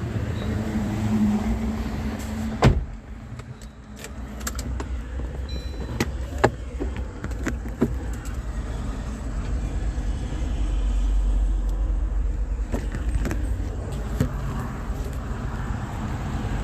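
Low, steady rumble of a motor vehicle, swelling for a few seconds past the halfway point, with a sharp click in the first few seconds and scattered lighter clicks later.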